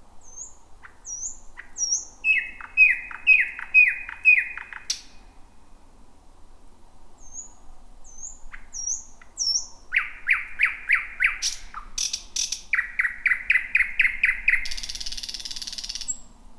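Thrush nightingale singing two song phrases. Each phrase opens with thin, high notes and goes into a loud, rapid series of repeated lower notes. The second phrase has a few hard clicks and ends in a dry, buzzing rattle.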